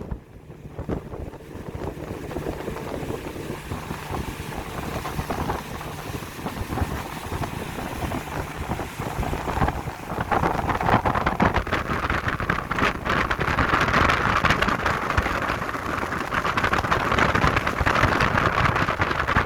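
Boat motor running with wind buffeting the microphone; about halfway through it gets louder, with a rushing hiss of water and wind.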